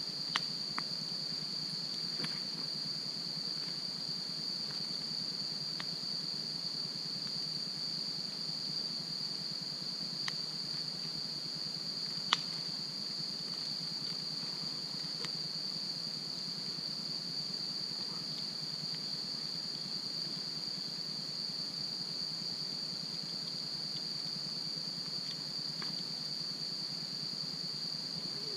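Insects, crickets by the sound of them, chirping in a steady high-pitched drone, with a campfire giving off occasional sharp pops and crackles; the loudest pop comes about twelve seconds in.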